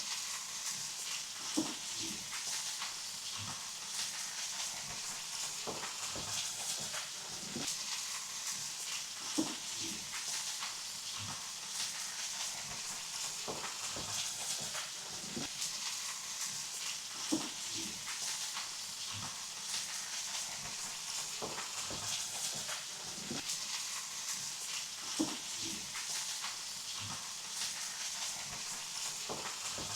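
Meat sizzling on a hot marble slab over a fireplace fire: a steady hiss with small crackles and four sharp pops spread through it.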